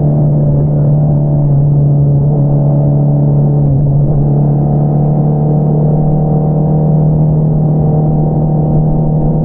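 2022 Honda CBR650R inline-four engine heard through an Akrapovič single-outlet exhaust, running at steady revs with an even, unbroken note.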